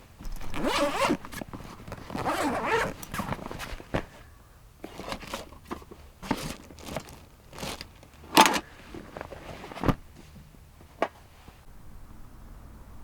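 A zipper pulled in a series of rasping strokes: two longer pulls in the first three seconds, then shorter, quicker ones until about eleven seconds in.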